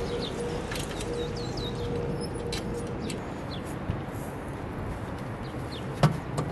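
Small birds chirping in short high calls over steady outdoor background noise, with a couple of sharp clicks about six seconds in.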